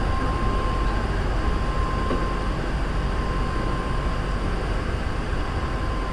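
Hankyu 3300 series electric train running, heard from inside the car: a steady low rumble of wheels on rail with a thin, steady high tone that fades out a couple of seconds in and comes back near the end.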